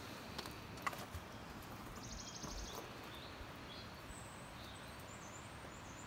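A small bird calling faintly: a rapid high trill about two seconds in, then a few short high chirps, some falling, from about four seconds on, over a faint outdoor hush. There is a single light click about a second in.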